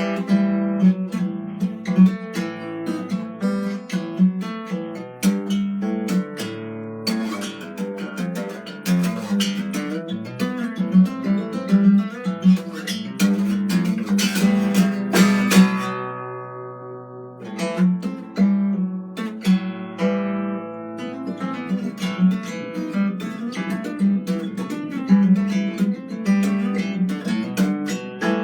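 Acoustic guitar played solo, plucked and strummed notes and chords. About halfway through a chord is left to ring and die away before the playing picks up again.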